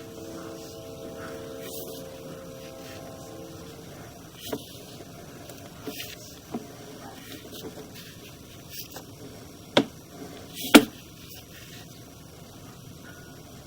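Sewer inspection camera equipment being handled: a steady hum with a faint whine that fades out over the first few seconds, then a scattering of sharp clicks and knocks, the loudest two near ten and eleven seconds in.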